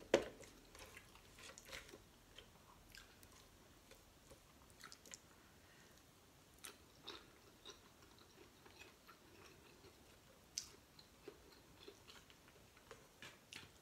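Quiet eating of shell-on seafood by hand: one sharp crack of shell being pulled apart at the start, then faint chewing with scattered small clicks and snaps.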